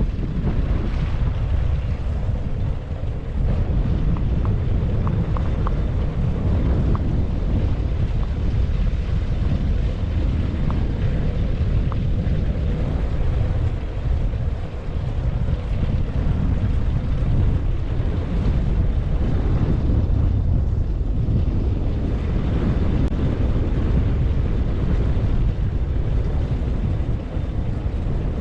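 Wind buffeting the microphone of a GoPro camera on a moving bicycle: a steady low rumble, with a few faint ticks a few seconds in.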